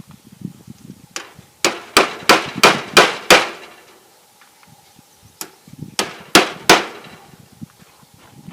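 Hammer blows: a run of about seven strikes, a pause, then four more, roughly three a second, each ringing briefly.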